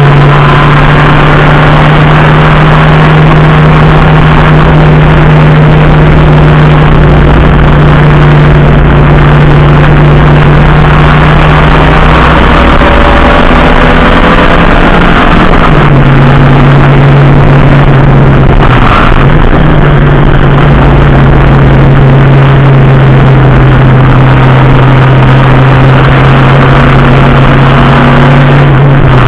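Racing car engine running loudly at steady revs. The note steps down to a lower steady pitch about halfway through, dips briefly a few seconds later, then holds again.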